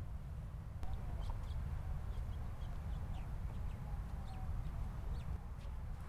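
Birds chirping outdoors: many short, thin, high chirps, some falling in pitch, over a steady low rumble.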